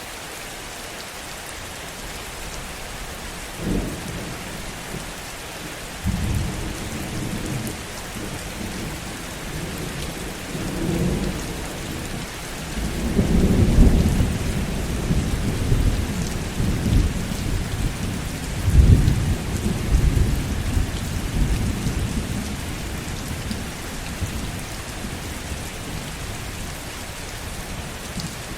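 Steady heavy rain with a long roll of thunder: a short crack about four seconds in, then low rumbling that swells to its loudest about halfway through, peaks again a few seconds later, and dies away well before the end while the rain carries on.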